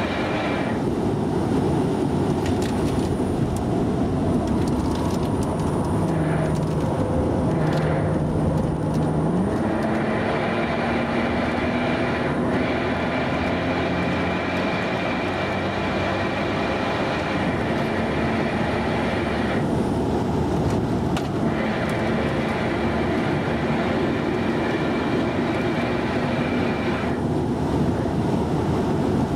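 Mercedes-AMG V6 engine running under hard track driving, heard inside the cabin over road and wind noise. Its note rises and falls with throttle and gear changes.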